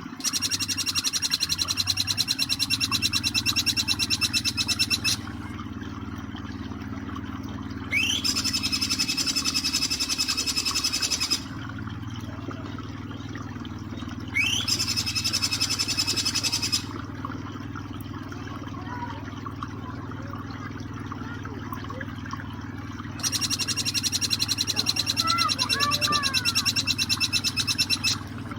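Jing jing petulak bird call-training recording: four bouts of a very rapid, machine-gun-like trill of ringing high notes, two of them opening with a quick rising sweep. Under it runs the steady sound of flowing water, with faint chirps in the gaps.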